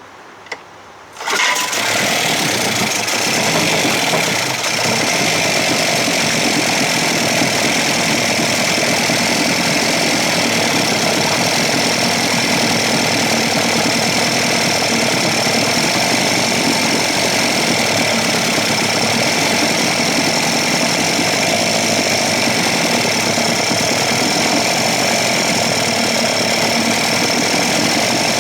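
A 1956 Evinrude 7.5 hp two-stroke outboard motor starting: a brief click, then about a second in the engine catches and runs steadily without stalling, as its carburetor is being dialed in.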